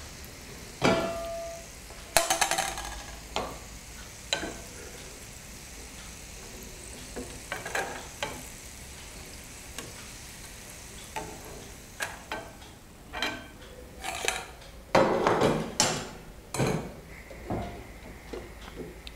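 Batter-coated peanuts frying in a pan of oil with a faint steady sizzle. Over it come scattered clinks, knocks and scrapes from a metal strainer and a wooden spoon against the steel plate and the pan, the loudest cluster near the end.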